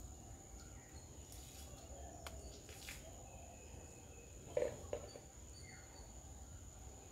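Quiet outdoor garden ambience: a steady high-pitched insect-like drone throughout, with a few faint clicks, a brief louder knock or crackle a little past halfway, and short high chirps and a falling call from birds just after it.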